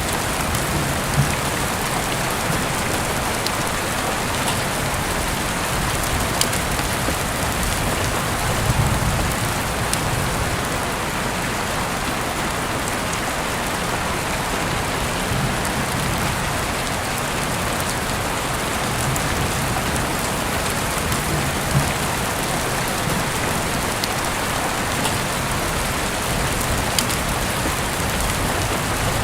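Heavy rain falling steadily, with scattered sharper drop hits.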